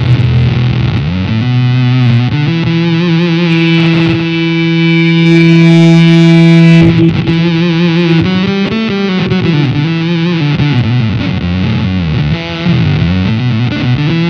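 Electric guitar through an EarthQuaker Devices Data Corrupter PLL synth pedal with the square-wave voice blended with the subharmonic oscillator: a tight, gatey, gnarly monophonic fuzz-synth tone. A long held note in the middle, then notes that swoop up and down in pitch.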